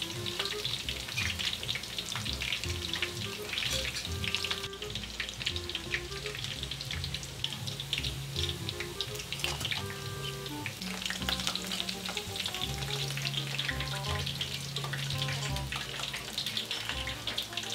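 Battered fish tempura frying in hot oil in a pan: a dense, continuous crackle and sizzle of fine pops, as the pieces are turned with metal tongs.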